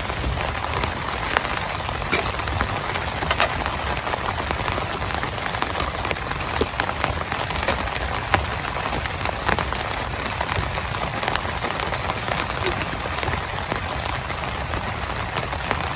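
Heavy rain falling steadily, with many sharp individual drop hits standing out from the even hiss.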